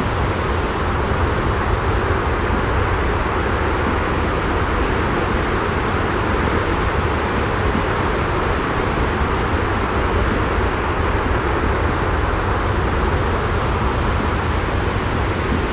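Steady white-noise sleep track: an even, unchanging rumbling hiss with no drops or separate events.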